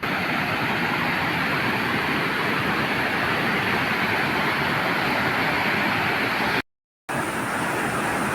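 Waterfall: a loud, steady rush of falling water. It cuts out abruptly for about half a second near the end, then comes back.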